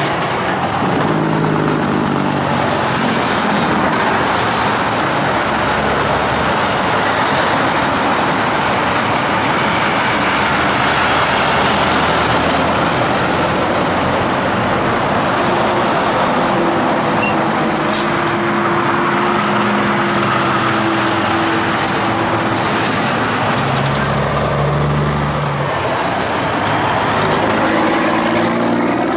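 Busy highway traffic: semi trucks and cars passing in a continuous stream, with steady tyre noise and the drone of diesel truck engines coming and going several times.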